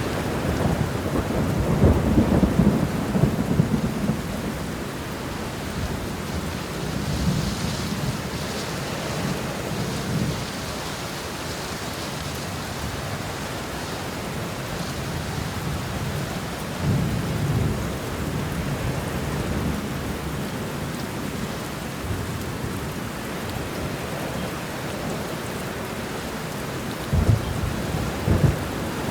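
Steady rain falling through a thunderstorm, with rolling thunder rumbling low several times: near the start, twice in the middle and again near the end.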